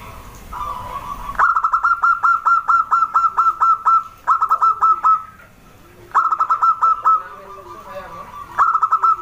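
Zebra dove (perkutut) singing: four runs of quick, staccato, hooked notes at about four to five a second, the first and longest starting about a second and a half in. Softer, lower cooing notes sound in the gaps between the runs.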